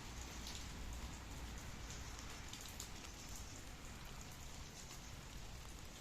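Steady rain falling, with scattered individual drops ticking sharply over an even hiss and a low steady rumble underneath.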